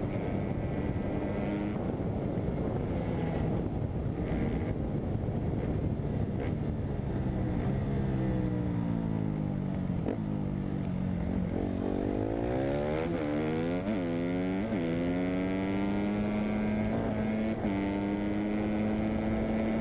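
A dirt bike engine, which sounds like a 250 rather than a 450, running and revving. It drops in pitch, then rises and falls quickly several times around two-thirds of the way in, then holds a steady pitch near the end.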